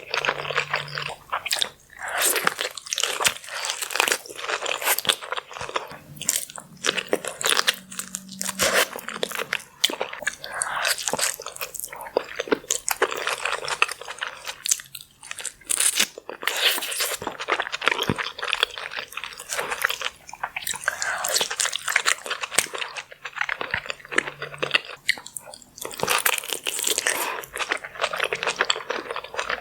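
Close-miked eating sounds: a person biting and chewing crunchy food, with dense, irregular crackling and a few short pauses between bites.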